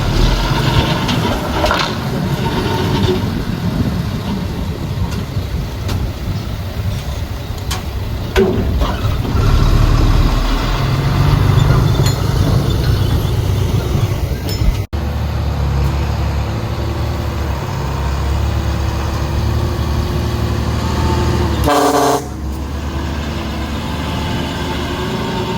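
Diesel engines of a Komatsu D31P bulldozer and dump trucks running steadily under load, their pitch shifting now and then. The sound drops out for an instant about midway, and a short horn toot sounds near the end.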